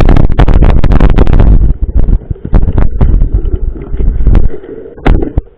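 Heavy wind buffeting on the microphone with a rapid run of sharp knocks and rattles, like a mountain bike's frame and parts jolting over rough trail. The knocks thin out after about a second and a half and the noise stops abruptly near the end.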